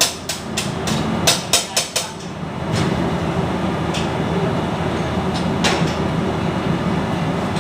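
Rapid hammer blows, about three or four a second, for the first two seconds, then a steady mechanical rumble for the rest.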